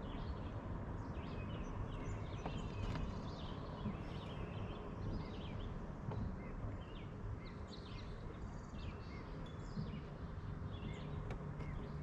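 Several songbirds chirping and singing in quick, scattered calls over a low, steady rumble.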